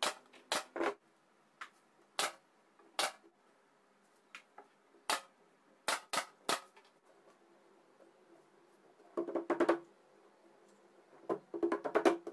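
A series of sharp knocks and taps, irregularly spaced, with two bursts of quick repeated tapping near the end, as of wood and metal parts being struck or handled.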